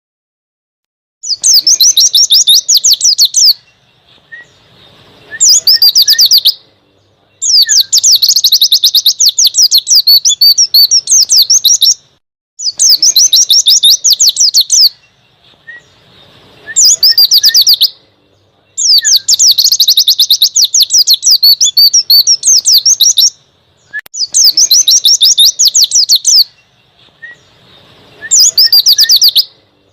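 Pleci (white-eye) singing its fast, high twittering 'ngalas' song in eight bursts of one to five seconds, with short pauses between.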